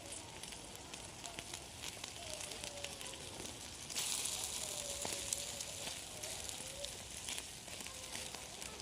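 A small cooking fire crackling, with a steady sizzling hiss that swells louder about four seconds in.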